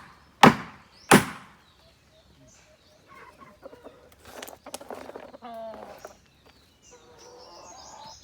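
Two sharp chopping strikes about 0.7 s apart in the first second and a half, the end of a steady run of chops. Then quieter scattered sounds with chickens clucking.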